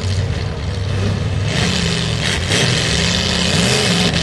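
Full-size demolition derby cars' engines running and revving, their pitch rising and falling. A loud, even hiss joins about one and a half seconds in.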